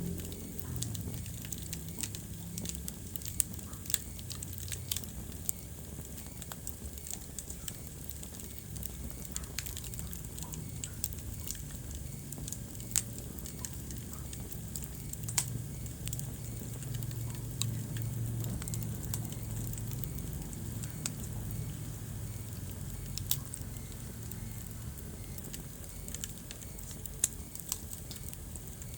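Wood fire burning in a fireplace, crackling with scattered sharp pops over a low, steady rumble of flame. A handful of pops stand out louder than the rest.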